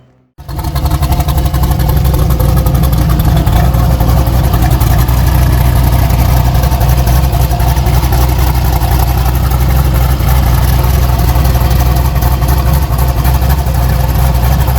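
Twin-turbocharged small-block Chevy V8 in a Chevy Nova, running loud and steady, on its first start after the twin-turbo install. It cuts in suddenly about half a second in.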